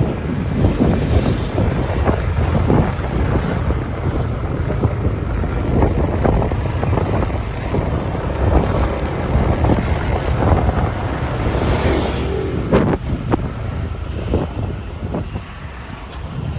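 Wind buffeting the microphone over a low, steady vehicle rumble, as when filming from a moving motorbike. It eases somewhat near the end.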